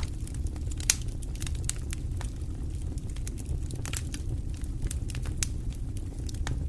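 Wood fire in a fireplace crackling: irregular sharp pops and snaps over a steady low rumble of the flames, one pop about a second in louder than the rest.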